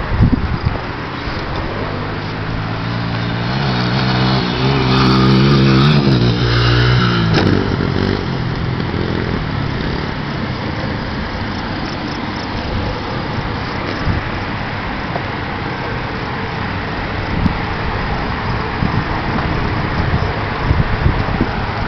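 Small 100 cc dirt bike engine running hard at high revs, loudest a few seconds in, then dropping in pitch and fading into a steady rushing noise.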